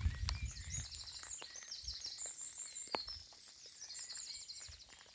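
Birdsong with rapid high trills over light rain, drops ticking scattered throughout. A low rumble of wind on the microphone fades in the first second.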